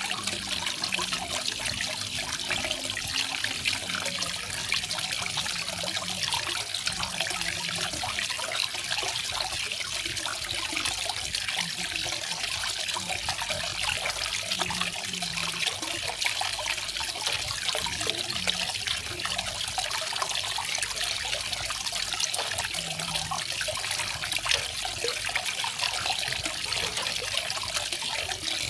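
Small garden waterfall: water falling and splashing steadily, a constant hissing rush with a trickling texture.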